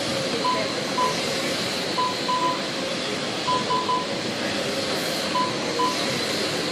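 Lap-counting timer beeping as RC trucks cross the timing line: short, identical mid-pitched beeps, singly and in quick runs of two or three, at irregular intervals over steady track noise.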